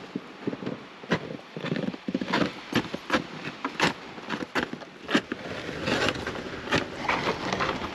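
Footsteps crunching through deep snow, an irregular walking pace of roughly one step every second or less.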